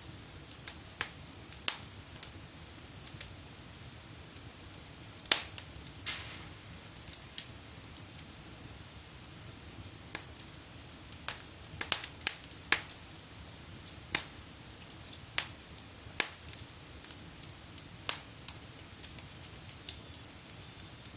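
Wood fire burning in a fireplace, crackling and popping at irregular intervals over a low steady hiss, with a few louder pops.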